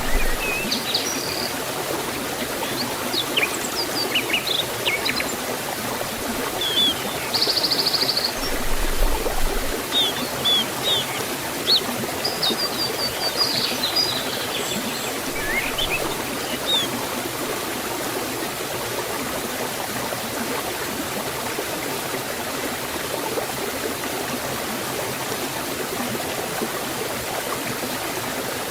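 Water of a forest waterfall flowing with a steady rush. Small birds chirp now and then through the first half, falling silent after about 17 seconds.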